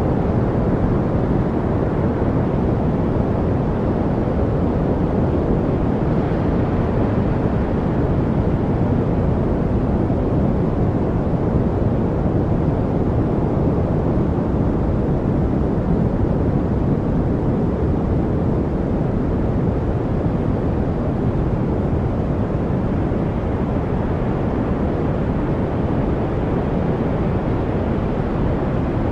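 Steady masking noise, an even, unchanging rushing hiss that is heavy in the low end and soft in the highs, with no birds, water trickles or other distinct sounds in it.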